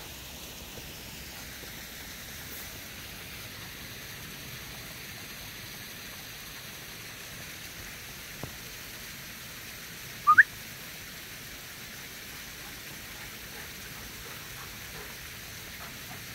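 Spring runoff water trickling through rocks, a steady hiss. About ten seconds in, one short rising whistle-like chirp stands out as the loudest sound.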